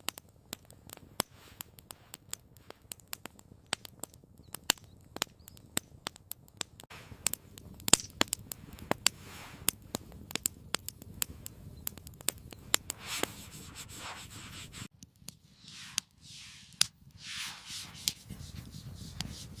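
Wood campfire crackling, with sharp irregular pops and snaps over a low hiss. About fifteen seconds in the sound changes suddenly, and a few softer rushing swells follow.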